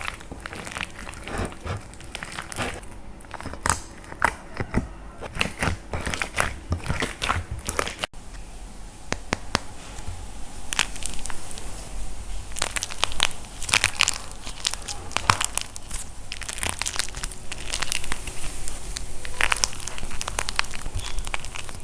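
Dry plaster clay being crushed and broken, a dense run of crunchy cracks and snaps. The crackling thins out after a cut about eight seconds in.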